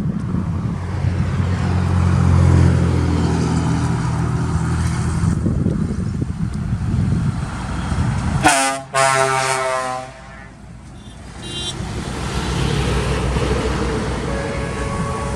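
Truck diesel engine running with a low rumble, then about two-thirds of the way in a loud truck air-horn blast of about a second and a half, with a fainter horn tone near the end.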